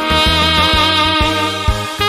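Alto saxophone holding one long note over a trot backing track with bass and a steady drum beat.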